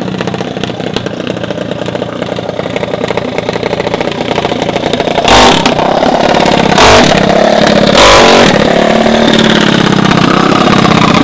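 Mini bike engine running hard at high revs, getting louder about halfway through, with three short loud bursts of rushing noise in the middle.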